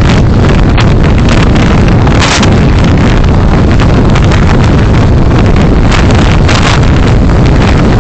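Car driving, recorded by a dashcam: a loud, steady rumble of road and wind noise, with brief hissing swells about two seconds in and again near the end.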